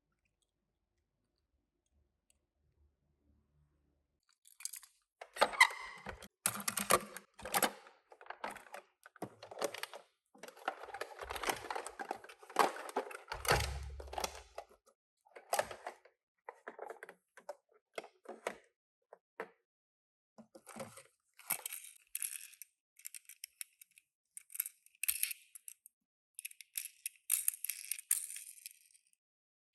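Handling noises from unboxing Tomica die-cast toy cars: cardboard and plastic packaging rustling and tearing, with irregular clicks and clinks. They start about four seconds in and come in uneven bursts.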